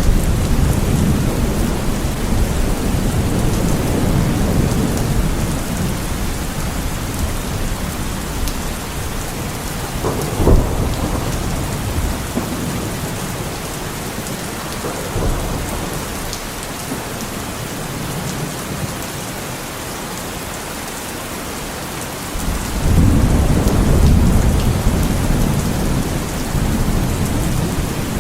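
Heavy rain falling steadily in a thunderstorm, with thunder rumbling low underneath. A sharp crack of thunder comes about ten seconds in, the rumble dies down through the middle, then swells up again suddenly with about five seconds to go.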